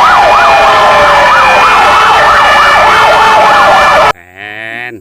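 Fire-engine siren, very loud, a fast rising-and-falling yelp of about three cycles a second layered over a slower falling wail. It cuts off abruptly about four seconds in.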